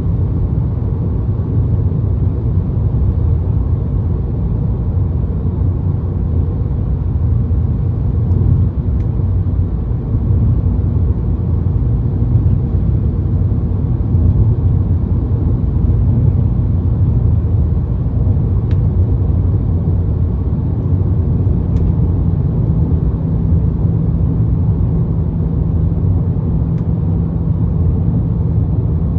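2022 Ford Maverick with an aftermarket MagnaFlow exhaust cruising steadily, a deep, even exhaust drone mixed with wind and road noise. The drone is slight, barely standing out above the wind and tyres, and its low hum grows a little stronger about two-thirds of the way through.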